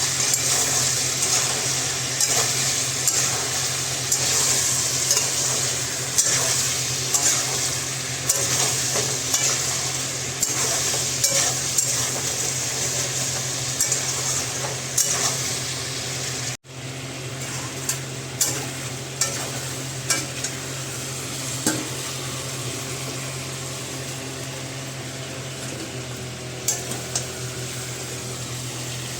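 Food sizzling in a frying pan while a metal spoon scrapes and knocks against the pan in stirring strokes, about once a second. After a short break about halfway through, the sizzle is quieter and the knocks come only now and then.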